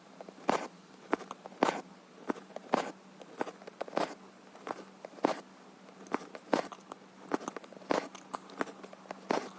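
Embroidery needle piercing cross-stitch fabric and thread drawn through it: short ticks and rasps, about two a second, over a faint steady hum.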